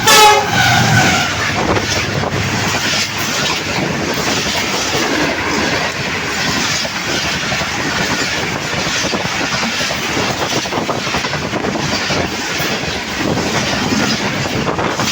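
Diesel locomotive's horn dropping sharply in pitch as the locomotive passes, then the express train's coaches rushing by with wheels clattering over the rail joints.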